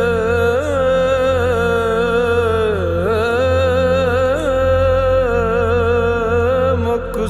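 Background music: one voice holding a long sung note with wavering melodic turns over a steady low drone, part of an Urdu devotional song (naat).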